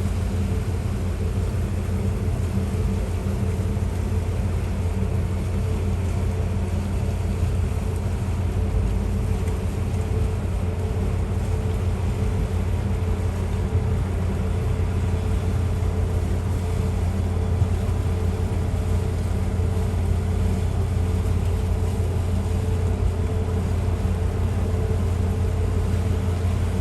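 Steady low drone of a boat's diesel engine running, an even hum that does not change.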